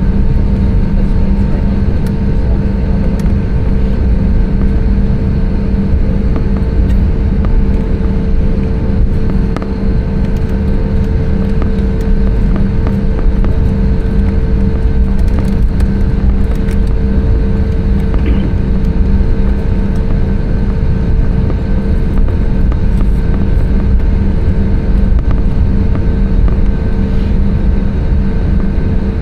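Airbus A320neo cabin noise: a steady, loud roar of engines and airflow with a constant low hum.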